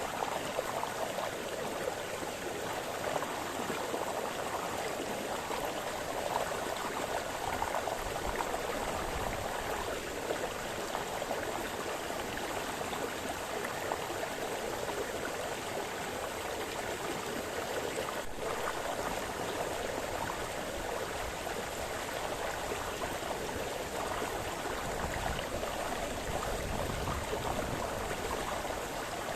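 Brook splashing and burbling over stones: a steady, continuous rush of flowing water.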